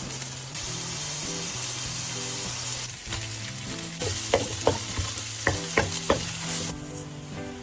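Noodles and scrambled egg sizzling in a hot nonstick wok, with a spatula scraping and knocking against the pan several times in the second half. Soft background music plays underneath.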